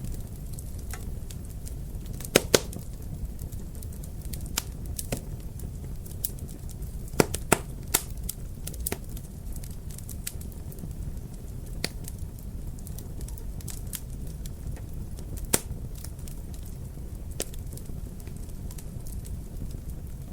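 Wood fire crackling in a fireplace: a steady low rumble with scattered sharp pops, the loudest pops a couple of seconds in, around seven to eight seconds in, and once more near the end.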